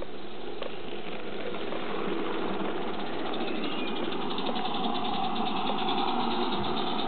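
Steam locomotive Mannin running: a steady hissing noise with fast, even beats in it from about three seconds in, growing slightly louder toward the end.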